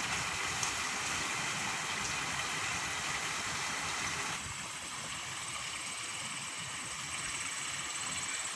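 Steady rushing of flowing water. About halfway through, the lower part of the noise drops a little and a faint, high, steady tone joins it.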